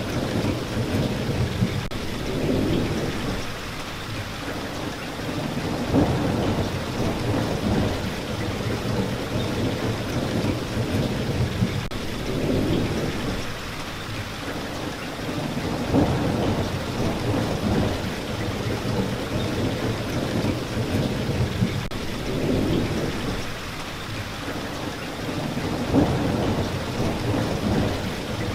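Steady rain falling, with low rumbling swells that rise and fade every few seconds and a brief sharp spike about every ten seconds.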